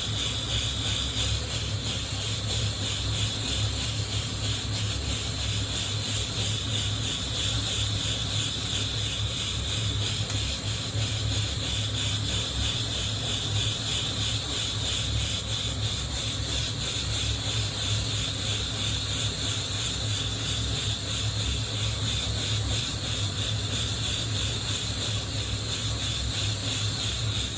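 Coffee beans rattling and rubbing against the wire mesh of a hand-held roasting net, shaken in a quick steady rhythm over a steadily hissing gas flame.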